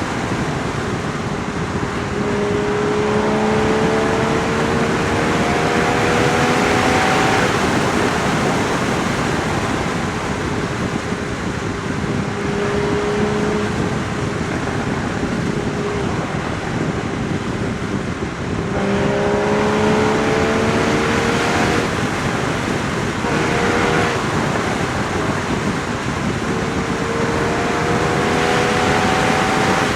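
Porsche Boxster Spyder 981's 3.8-litre flat-six exhaust under way, the engine note climbing steadily as the car pulls through the revs several times, with steadier cruising between pulls. Wind and road noise run under it throughout.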